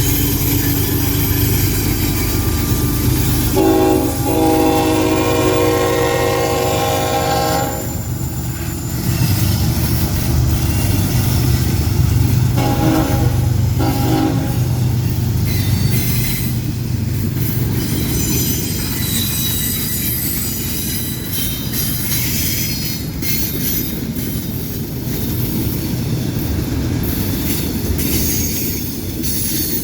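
A passing train with a steady low rumble, its locomotive horn sounding one long blast and then two short ones. High-pitched wheel squeal comes in during the second half.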